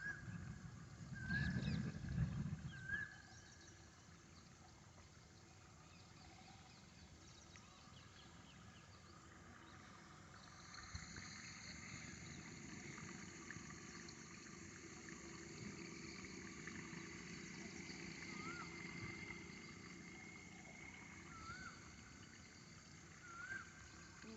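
Faint outdoor night chorus of insects, a steady high shrilling of several held tones that thickens about ten seconds in, with short rising chirps from some animal now and then. A louder low rumble comes about a second in and lasts a couple of seconds.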